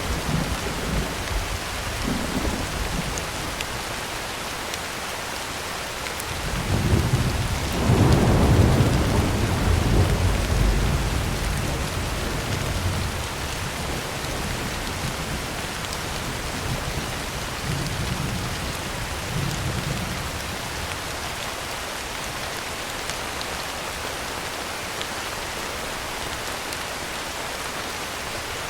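Heavy rain falling steadily on a tin roof. A roll of thunder rumbles in about a quarter of the way through and fades over several seconds, with fainter rumbles near the start and about two-thirds of the way in.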